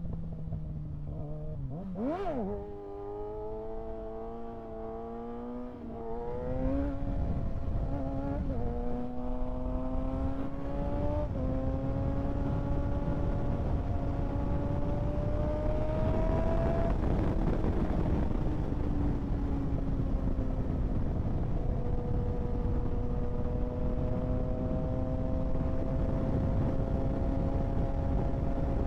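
Kawasaki ZX-6R 636's inline-four engine, heard from the rider's position. It revs sharply and briefly about two seconds in, then pulls up through the gears with several quick upshifts. Over the second half it settles to a steady cruise.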